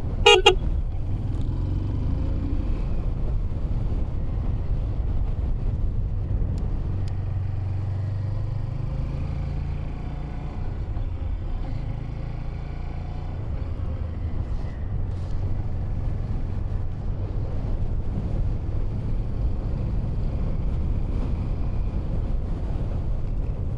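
Honda 125cc learner motorcycle engine running at low speed, its note rising and then falling about halfway through as the bike speeds up and slows. A short horn toot sounds right at the start.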